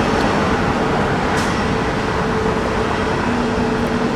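Jet airliner engine noise: a loud, steady rushing sound with a constant droning tone, and a second, lower tone joining near the end.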